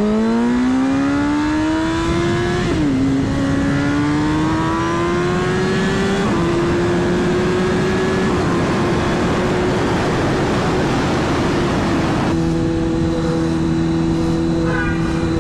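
Motorcycle engine pulling hard under acceleration: the revs climb, dip at a gear change about three seconds in, climb again, then hold fairly steady while cruising. Wind noise rushes over the microphone throughout.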